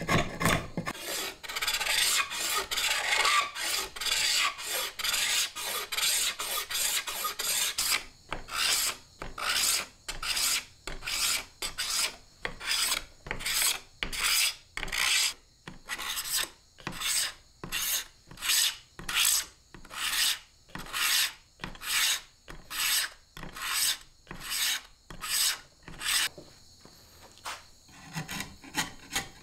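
Hand-tool scraping strokes with a rasp-like sound. The scraping is dense and continuous for the first several seconds, then breaks into separate even strokes, nearly two a second, with a short pause near the end.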